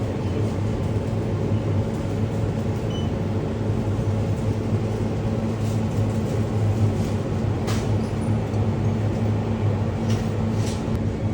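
Steady low mechanical hum with a few faint clicks over it.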